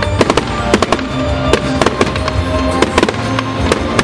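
Fireworks display: aerial shells bursting in a rapid, irregular run of sharp bangs and crackles, several a second, over loud music.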